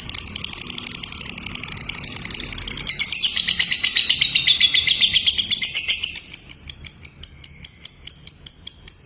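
Lovebird chattering in one long, unbroken, rapid high-pitched trill, the continuous 'konslet' style of song, growing louder about three seconds in.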